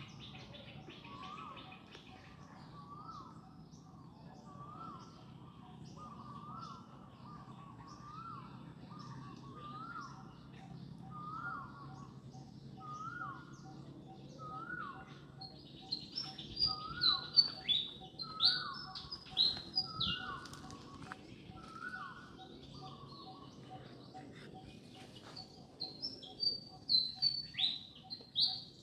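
Birds calling: a steady series of short, rising-and-falling notes about once a second, joined about halfway through by bursts of loud, shrill, high calls that fall in pitch, and again near the end. A faint, regular ticking runs underneath.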